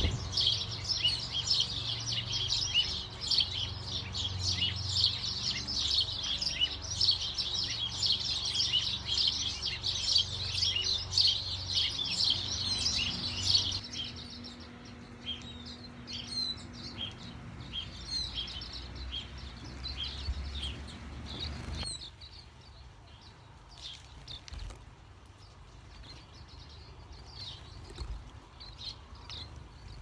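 Small birds chirping: a dense, rapid chatter of many high calls for about the first fourteen seconds, then thinning to scattered separate chirps. The background noise drops away abruptly about twenty-two seconds in.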